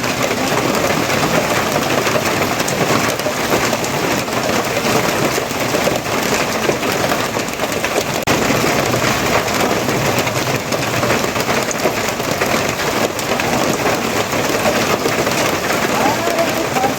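Steady, heavy rain falling on surfaces: a dense, unbroken hiss of drops.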